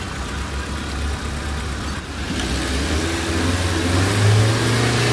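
Chevrolet Spark's petrol engine running at idle, its revs climbing to a higher steady speed about two to four seconds in.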